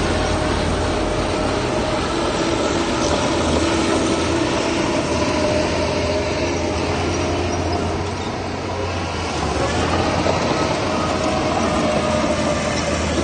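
Heavy diesel earthmoving machinery running steadily under load: a low engine drone with a steady metallic whine over it, easing briefly about two-thirds of the way through.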